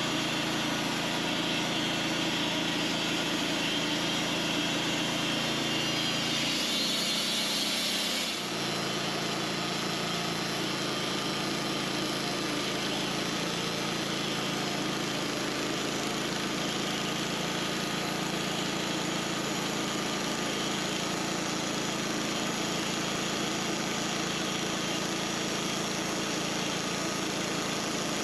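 Sawmill engine running steadily while oak is milled into slabs. The sound changes abruptly about eight seconds in.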